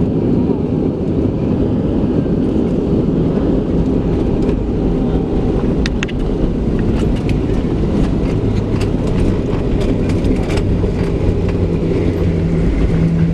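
Cabin noise inside a Boeing 737-700 rolling on the ground after landing: a steady low rumble from its CFM56-7B engines and the wheels, with a run of light clicks from the cabin between about six and eleven seconds in. A steady low hum joins the rumble partway through.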